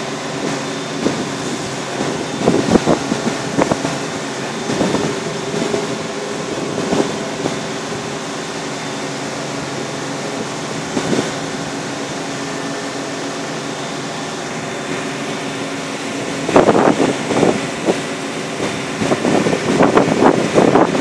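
Shrimp boat's engine running steadily at a constant pitch, with gusts of wind buffeting the microphone now and then, most strongly near the end.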